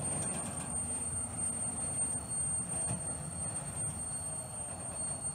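Freight train of autorack cars rolling past, a steady rumble of wheels on rail.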